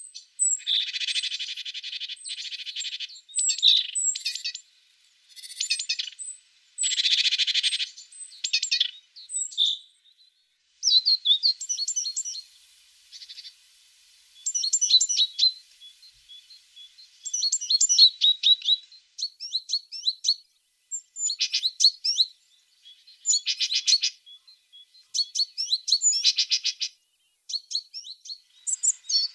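Tits calling and singing: in the first few seconds, harsh buzzy churrs mixed with sharp chirps, then quick runs of high, thin notes and trills, repeated in short phrases with brief pauses.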